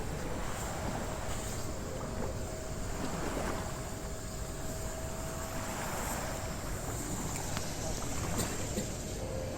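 Water rushing along a sailing yacht's hull under way, with wind buffeting the microphone as a steady low rumble; the rush of water swells a couple of times.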